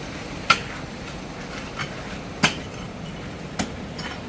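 Irregular sharp knocks of something hard being struck, about five blows a second or so apart, the loudest about half a second in and near the middle.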